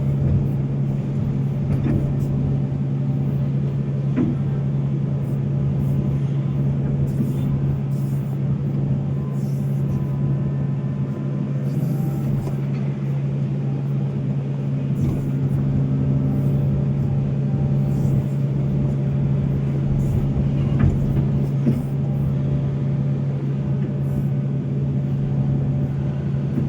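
Volvo excavator's diesel engine running steadily as it works, a constant low drone, with a few brief knocks now and then.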